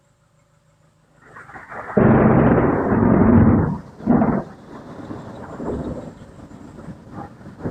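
Close thunder from a nearby lightning strike: a loud crash building about a second in, a second surge just after, then a long uneven rumble dying away.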